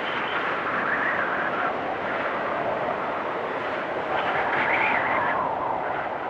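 Storm wind blowing hard and whistling, swelling into a higher whistle about a second in and again, louder, around five seconds in.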